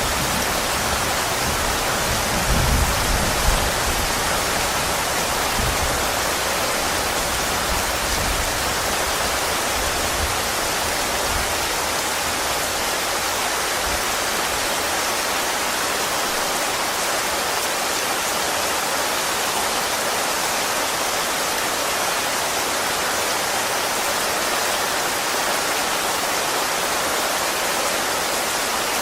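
Steady rain falling, an even hiss that holds level throughout. A low rumble under it in the first few seconds fades away by about ten seconds in.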